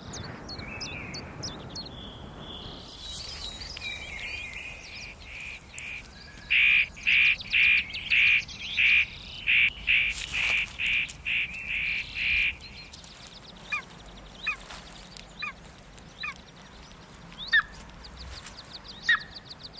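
Golden eagle nestling calling: a run of about a dozen loud, high-pitched calls at roughly two a second in the middle, with fainter scattered chirps before and after.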